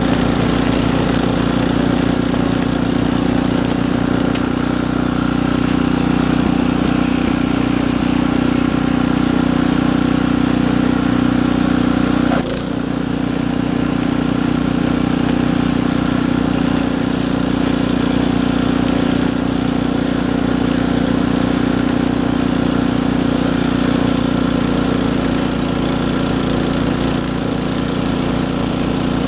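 Small snowblower engine running steadily while clearing snow, with a brief dip in level about twelve seconds in.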